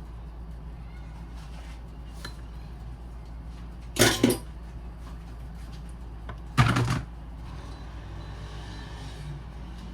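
Two brief, loud household clatters, about two and a half seconds apart, over a steady low hum.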